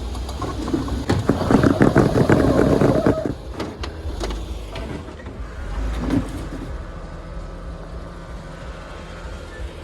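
Jeep Wrangler crawling over rock, its engine a steady low rumble. About a second in it gets louder for about two seconds, with many clicks and knocks over the top, then eases off.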